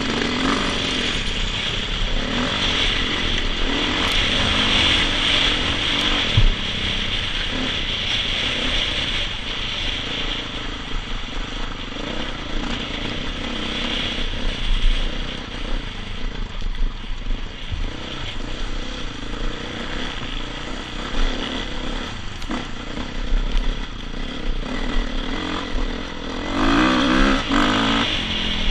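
Dirt bike engine running under throttle while being ridden, its pitch and loudness rising and falling, with rattles and knocks along the way. Near the end the engine revs up louder for a couple of seconds.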